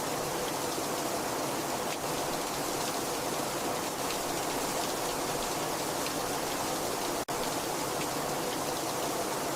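Very heavy rain falling steadily, a dense even hiss with faint scattered drop ticks. The sound cuts out for an instant about seven seconds in.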